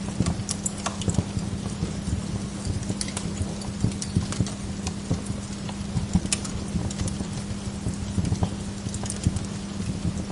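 Wood log fire crackling, with dense irregular pops and snaps over a steady low hum.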